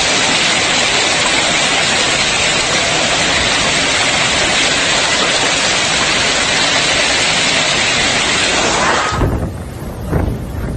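Heavy hail and rain pounding down in a dense, steady hiss for about nine seconds. Then it cuts abruptly to gusty wind buffeting the microphone in uneven surges.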